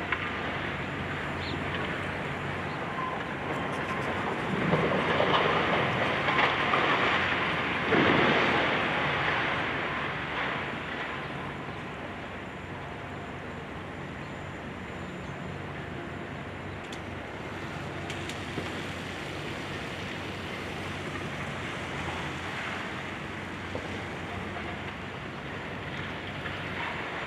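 Demolition machinery, a high-reach excavator's diesel engine, running steadily, with a louder swell of noise from about four to ten seconds in.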